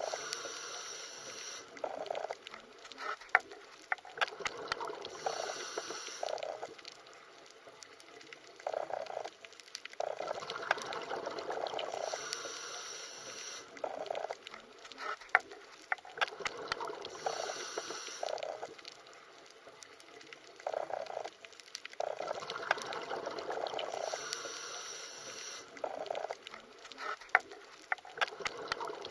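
Underwater ambience of moving water with scattered sharp clicks, swelling and easing in a repeating cycle of about six seconds.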